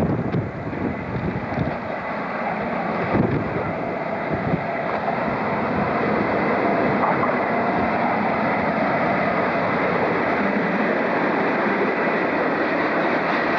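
Diesel freight locomotive approaching and running past close by, its engine note and wheel noise growing about halfway through and giving way to the steady rumble of its hopper wagons rolling through. Wind buffets the microphone in the first few seconds.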